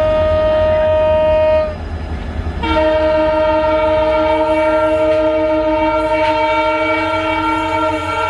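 Indian local train's horn: one long steady single-note blast that stops just under two seconds in, then after a brief gap a second, fuller multi-note horn blast that holds to the end, over the train's steady low rumble.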